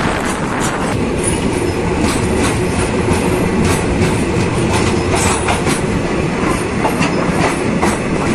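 Indian Railways passenger coaches rolling past close by: a steady loud rumble with repeated sharp clacks of the wheels over the rail joints.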